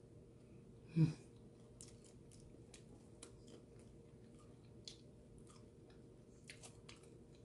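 Close-up chewing of a fried spring roll: faint, irregular crunches and wet mouth clicks. About a second in there is one short, louder vocal sound, like a brief 'mm'.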